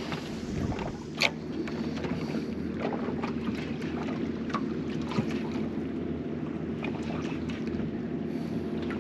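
Water lapping against a small boat's hull with wind on the microphone and a faint steady low hum, broken by scattered light clicks and one sharp knock about a second in.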